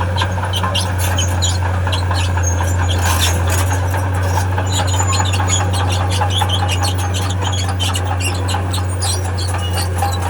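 Tracked heavy machine's steel tracks squealing and clicking in rapid, irregular squeaks over the steady drone of its engine.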